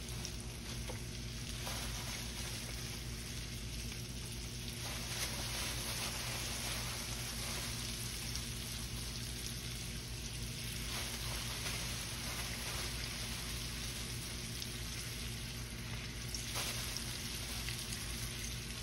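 Flour-dredged turkey wing pieces frying in hot vegetable oil in a skillet: a steady sizzle, growing stronger in stretches as more pieces are laid into the oil.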